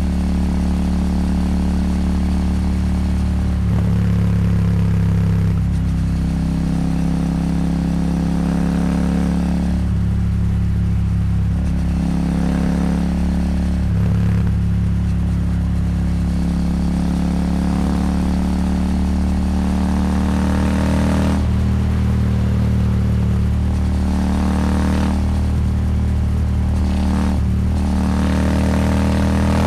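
Royal Enfield Super Meteor 650's parallel-twin engine running through an aftermarket slip-on exhaust, its note mostly steady with a few small rises in revs, over wind noise.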